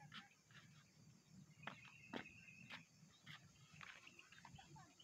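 Near silence: faint outdoor ambience with scattered faint bird chirps, including one held high note about two seconds in.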